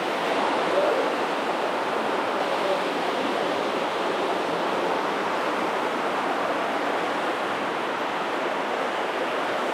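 Steady rush of flowing, falling water inside a cave, an even hiss with no breaks.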